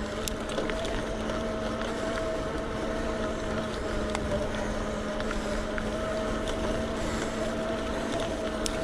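Electric bike motor whining steadily under load, pulling the bike up a steep hill, with a steady rush of background noise.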